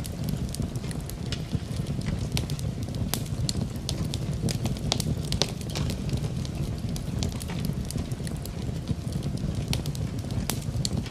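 Wood fire in a fireplace crackling, with frequent sharp, irregular pops over a low steady rumble.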